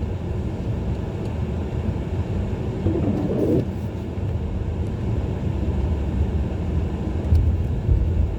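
Car running at road speed, heard from inside the cabin on a snow-covered street: a steady low rumble of engine and tyres. A brief higher-pitched sound comes about three seconds in.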